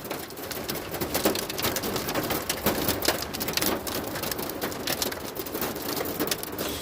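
Heavy rain with big droplets striking the roof and windows of a Toyota Prius, heard from inside the car: a dense, uneven patter of single drop hits over a steady wash of rain.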